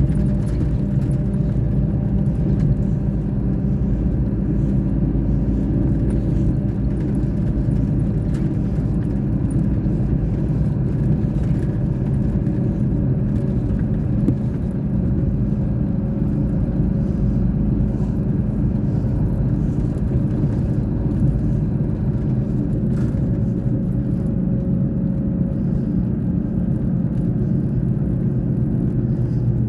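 Scania K420 bus engine running steadily with a low, even hum, holding an unchanging pitch.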